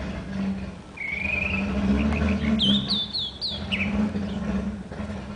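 Small wild birds calling and chirping: a short rising trill about a second in, then a run of high, sharp down-slurred notes around the middle. A steady low hum runs underneath.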